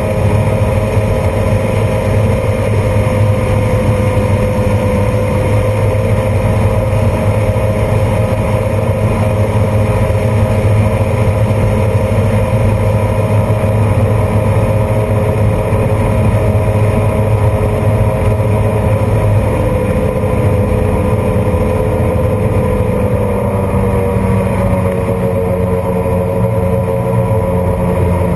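1995 Sea-Doo Speedster jet boat's twin two-stroke engines running steadily under way, the engine note dropping a little about two-thirds of the way through.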